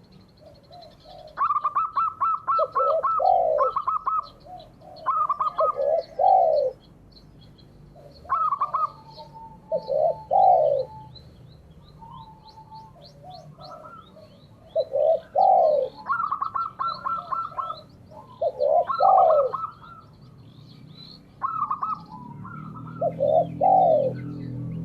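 Doves cooing in repeated phrases, each a quick run of short clipped notes followed by one or two longer, lower, falling coos, with faint high twittering from small birds behind. A low hum comes in near the end.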